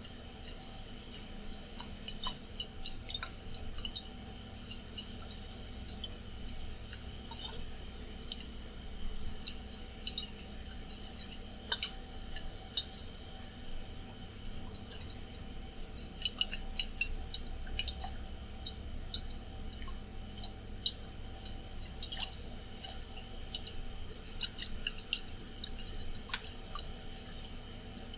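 Water moving and dripping in a glass bottle handled close to the microphone, with many small sharp clicks and taps throughout. Under it runs the steady hum of an air conditioner.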